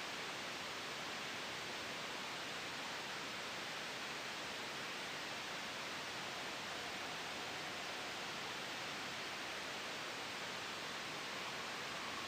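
Steady white noise blended with a soft wind, an even hiss that does not change.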